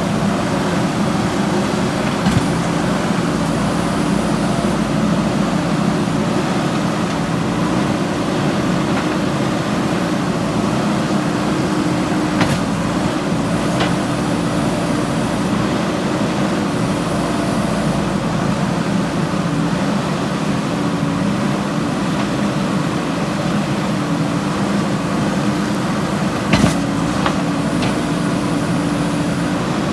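JCB 3DX backhoe loader's diesel engine running steadily at work, with a few sharp knocks now and then, the loudest near the end.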